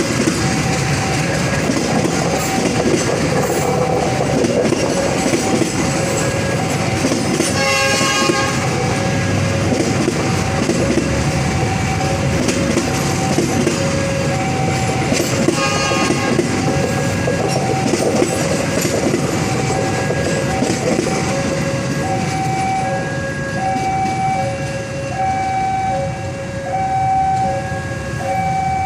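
Passenger train hauled by a CC 201 diesel-electric locomotive passing close by, with a continuous rumble and wheels clicking over rail joints. The horn sounds briefly twice, about eight seconds in and again about sixteen seconds in. A level-crossing warning alarm sounds throughout in two alternating tones, standing out more in the second half as the train noise drops.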